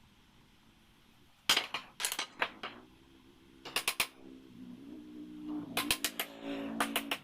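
Pneumatic nail gun firing quick runs of sharp shots into a wooden frame, about four a second, in three bursts, with a faint hum under the later shots.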